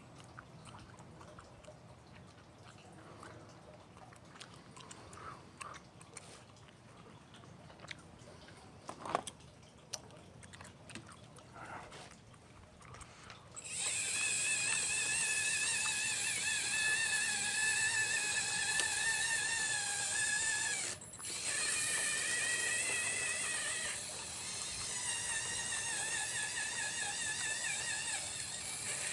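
Radio-controlled Liebherr 954 model excavator's hydraulic pump motor whining at a high pitch, wavering as the load changes. It starts abruptly about halfway through and breaks off for a moment about seven seconds later; before it there are only faint clicks.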